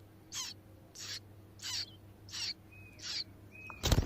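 A bird calling repeatedly: short, high calls that slide downward in pitch, about one every two-thirds of a second. A loud bump or rustle comes near the end.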